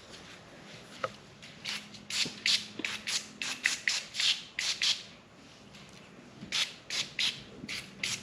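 Towel scrubbing back and forth on windshield glass in quick hissing strokes, about three a second, with a short pause in the middle, rubbing paint-marker lettering off the glass.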